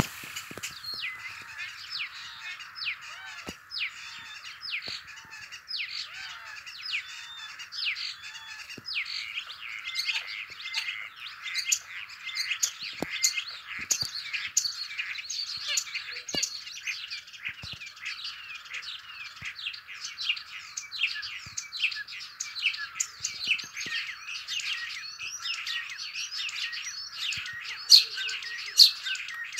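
Many small songbirds chirping and singing at once: a dense spring chorus of quick, overlapping calls, with a few louder chirps near the end.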